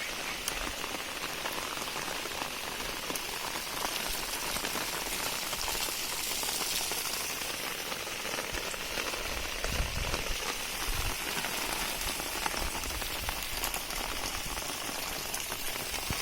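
Steady heavy rain falling on surfaces, an even hiss with many small drop ticks.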